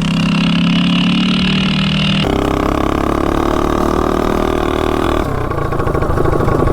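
Predator 212 single-cylinder engine with a header pipe on a mini bike, running at a steady speed; its pitch jumps abruptly twice, a little over two seconds in and about five seconds in.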